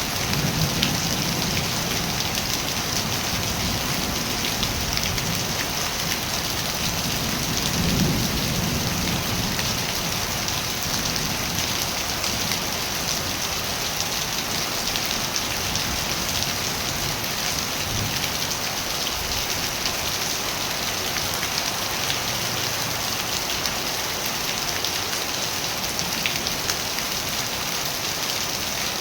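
Steady rain falling, a dense even hiss with scattered sharper drop hits. A low rumble swells briefly about eight seconds in.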